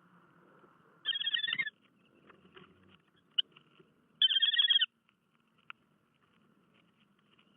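Bird calling at a nest: two short bursts of rapid, chattering notes, each under a second long, about three seconds apart.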